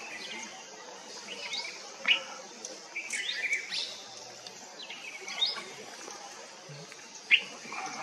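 Small birds calling: short, sharp chirps at irregular intervals a second or two apart, some sweeping quickly down in pitch, with a small cluster about three seconds in.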